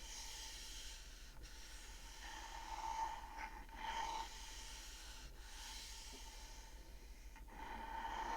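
Scratching on the wood of a wooden bead-abacus toy: a faint rasping noise that swells in strokes about three and four seconds in and again near the end.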